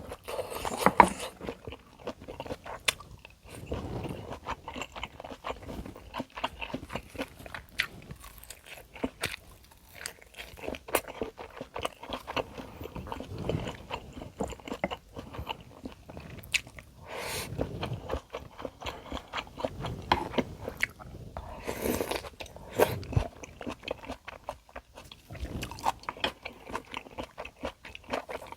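Close-miked eating sounds: a person biting and chewing food, with irregular crunches and many short sharp clicks.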